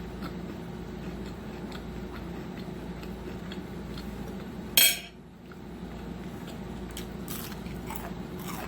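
Close-miked eating at a plate with cutlery: faint scattered clicks and crunches over a steady low hum, with one loud sharp clack about five seconds in and a few more clicks near the end.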